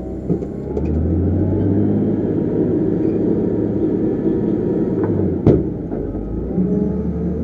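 Diesel engine of heavy earthmoving equipment working under load, getting louder about a second in and easing off near the end, with one sharp knock partway through.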